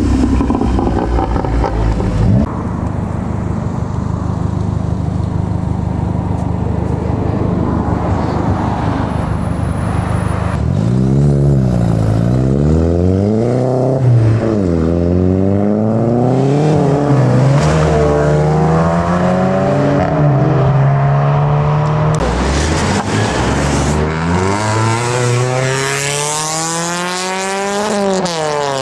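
Modified cars' engines running at a steady low drone. From about ten seconds in, the revs rise and fall again and again as cars accelerate away, ending with one long rising rev near the end.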